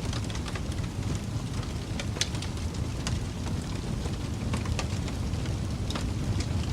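Wood fire crackling in a fireplace: irregular sharp pops and snaps over a steady low rumble, with one louder snap about two seconds in.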